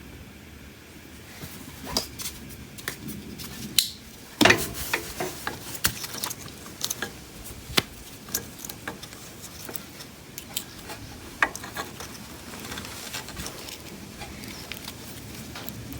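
Hand tools working on a ride-on lawnmower: scattered sharp clicks, taps and rattles of tools and parts, the loudest a single knock with a short ring about four and a half seconds in.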